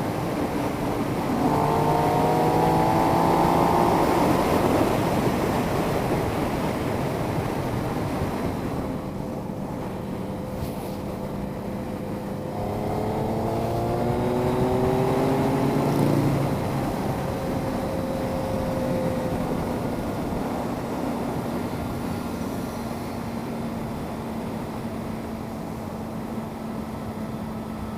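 Triumph Speed Triple's three-cylinder engine heard from the rider's helmet over steady wind rush. Twice the engine pitch climbs in a run of short rising sweeps as the bike accelerates, then settles to a steadier cruising tone.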